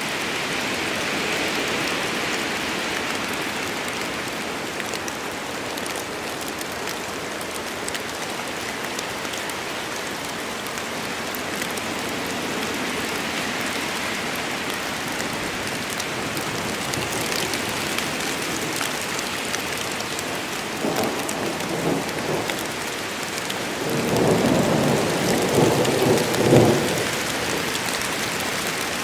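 Steady rain falling in a forest storm, with thunder rumbling twice near the end; the second roll is louder and lasts a few seconds.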